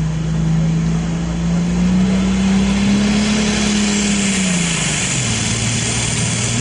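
Diesel super stock pulling tractor's engine running hard under load, its pitch climbing slightly, then dropping sharply about five seconds in as it comes off throttle and settles lower. A hiss grows over the engine from about four seconds in.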